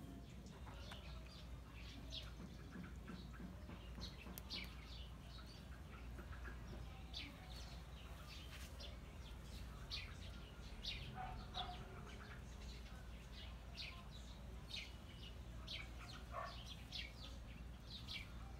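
Birds chirping in the background: many short, high chirps scattered throughout, over a faint low steady hum.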